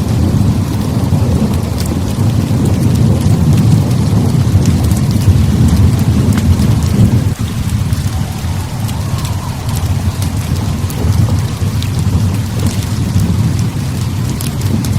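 Heavy rain pouring steadily under a deep, continuous rolling rumble of thunder, with faint sharp crackles scattered throughout.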